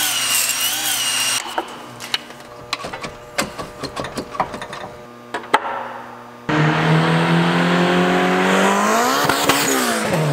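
A cordless drill whines briefly in an engine's cylinder bore, followed by scattered clinks and knocks of tools on engine parts. Then, about two-thirds of the way in, the turbocharged 1993 Honda Civic EG hatchback starts up loud, its engine note climbing as it accelerates and dipping as it passes near the end.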